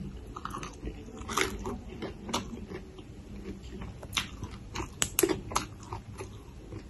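Close-miked mouth sounds of chewing raw acacia pennata shoots, with irregular crisp crunches and snaps. A cluster of sharper snaps comes about five seconds in as the shoots are pulled apart by hand.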